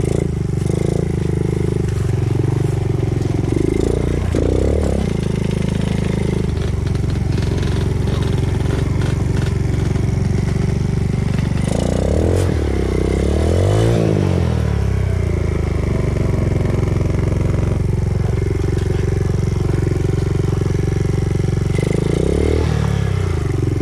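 Enduro dirt bike engine running steadily at low revs, with throttle blips: a short rev about four seconds in, a longer rev that rises and falls around the middle, and another short rev near the end.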